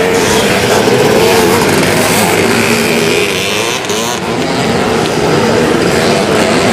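Vintage twin-shock motocross motorcycles racing, several engines revving with pitch rising and falling as they are ridden around the course.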